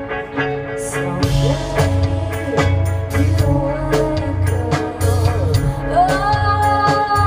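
Live band music: a voice singing comes in about a second and a half in over guitar, with a pulsing bass and drums keeping a steady beat.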